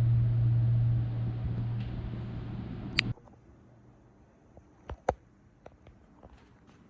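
A steady low hum fades a little, then cuts off abruptly about three seconds in, just after a sharp click. Near-quiet room tone follows, with a few faint clicks and taps.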